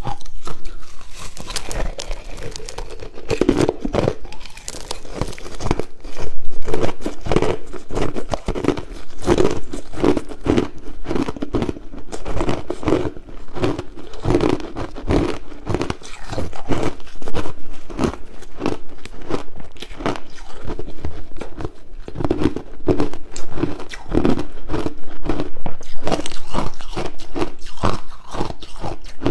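Crushed ice being bitten and chewed close to the microphone: a continuous run of loud, sharp crunches, several a second.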